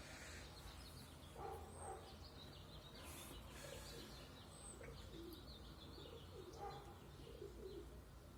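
Pigeons cooing faintly, a string of low repeated coos, with some faint high chirping among them.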